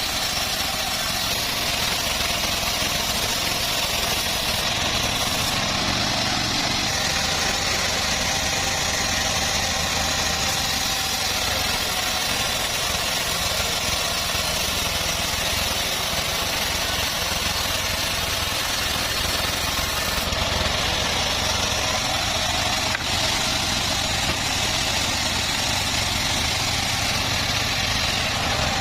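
Homemade bandsaw mill running steadily: a constant engine-like drone under a high hiss that does not let up.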